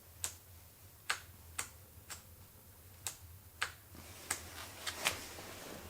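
About nine short, sharp clicks at uneven intervals, typical of the handlebar light switch being flicked between low and high beam, over a faint steady low hum.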